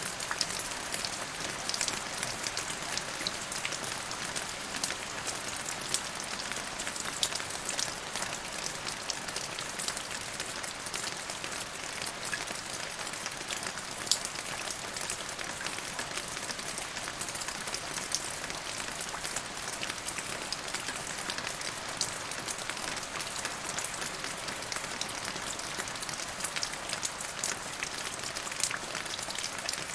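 Steady rain falling, a constant hiss dotted with the sharp ticks of individual drops landing close by.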